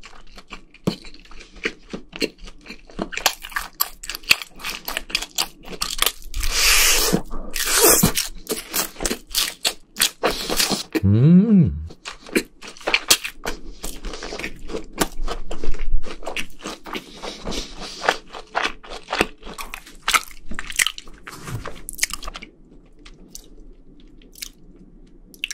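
Close-miked crunching and chewing of a fried rice-cake-and-sausage skewer (sotteok) coated in seasoning powder, with many irregular crisp bites and wet mouth sounds. There is a brief hummed sound about halfway, and the chewing is quieter near the end.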